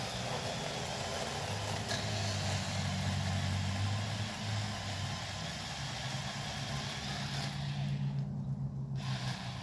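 Chainsaw cutting through a tree limb: a steady motor note under the noise of the chain biting wood, with a brief let-up in the cutting near the end.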